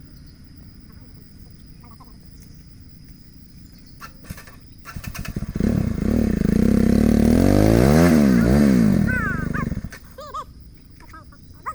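Royal Enfield Himalayan motorcycle engine starting about halfway through, then revved hard with its pitch climbing and falling before it stops near the end. It is straining to drive the bike out of deep mud it is stuck in.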